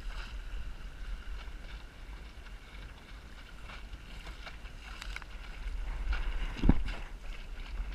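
Strong wind buffeting the microphone aboard a small sailboat, a steady low rumble with scattered light knocks, and one loud thump near the end.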